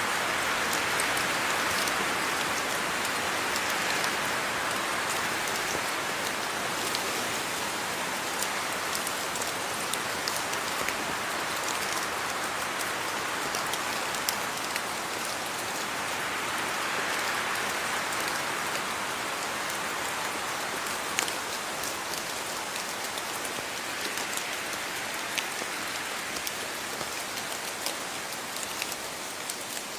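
Steady rain falling, an even hiss that swells and eases slowly, with scattered individual drops ticking sharply on a surface.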